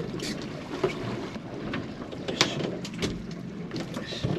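Steady wind and water noise on a small open fishing boat, with scattered knocks and clicks, the loudest about two and a half and three seconds in.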